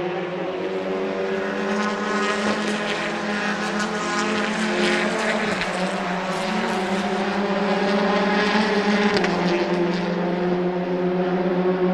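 Racing car engine running at high, nearly steady revs, its pitch dipping slightly around the middle and again about nine seconds in.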